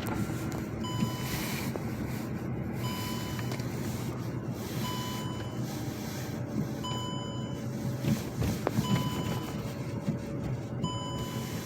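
An electronic beeper sounding a short beep about every two seconds, over the steady low rumble of an engine.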